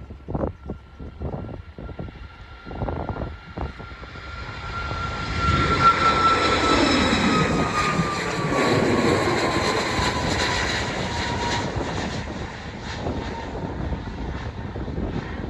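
Boeing 737-8 MAX jet's CFM LEAP-1B turbofans passing by. The noise swells over the first five seconds and stays loud, and the engine whine drops in pitch as the plane goes past. Gusts of wind buffet the microphone in the first few seconds.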